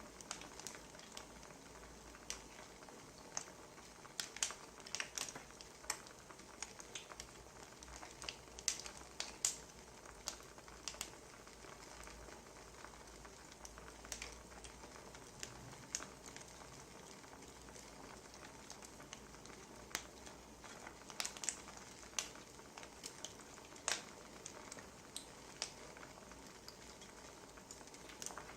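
Wood fire burning, a soft steady hiss with irregular sharp crackles and pops from the firewood.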